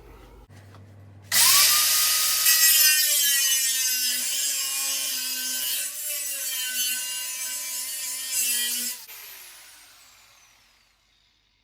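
Angle grinder cutting through a steel tractor frame: a loud, harsh whine that starts suddenly and dips in pitch now and then as the disc bites. Near the end it is switched off and its whine falls away as the disc spins down.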